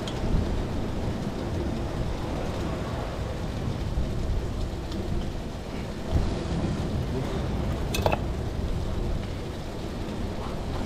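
Bacon-wrapped sausage sizzling in a pan on a small gas camping stove, over a steady low rumble of wind and sea. A single sharp click about eight seconds in.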